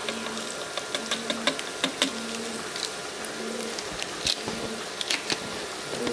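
Cut vegetables sizzling in hot oil and liquid in a cooking pot, with many scattered crackles and pops. An on-and-off low buzz is heard in the first half.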